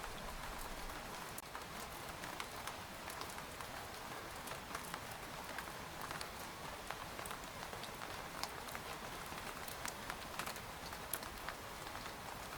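Steady rain falling on a tent: an even hiss of rainfall, with many single drops tapping sharply on the fabric throughout.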